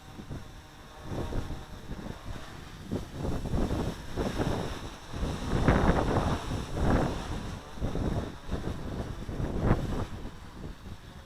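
Wind buffeting the microphone in uneven gusts, a rumbling noise that swells and falls, loudest around the middle.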